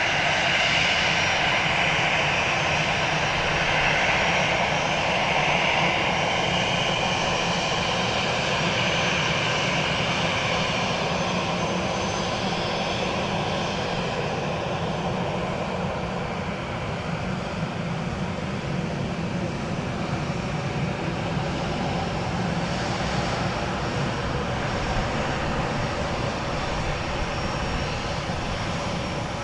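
Airbus A320 jet engines heard from the ground as a steady rushing roar whose hissy upper part eases off after about twelve seconds, the whole sound slowly fading.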